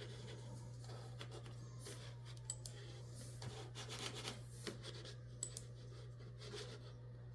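Scattered light clicks and rubbing from handling things at a desk, over a steady low hum.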